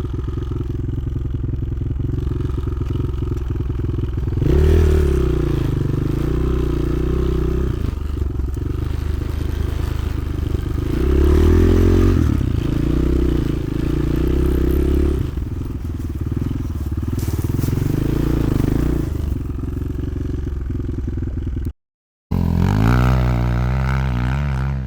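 Motoland XR 300 Lite enduro motorcycle's single-cylinder engine running while being ridden, the revs climbing and falling several times, with a brief dropout to silence about 22 seconds in.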